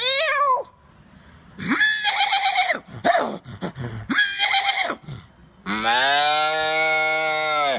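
A man imitating animal calls with his voice: a few short wavering calls, then one long low call held steady from a little past halfway.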